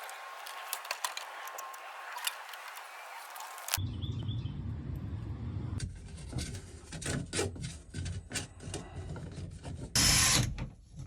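Dryer vent duct being cleaned out: scraping and rubbing with many scattered knocks and rattles, and a short loud hiss about ten seconds in.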